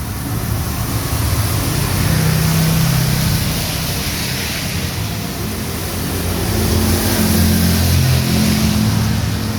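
Heavy rain falling steadily on a street, with vehicles passing on the wet road: an engine hum swells about two seconds in and again near the end.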